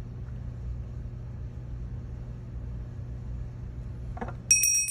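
A steady low hum, then near the end a small bell rings once and keeps ringing: the signal for pencils down and hands on head.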